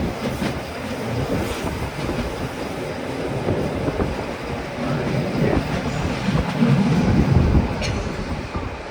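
Bernina Express train running on the rails, a steady rumble of wheels and carriage that swells about seven seconds in.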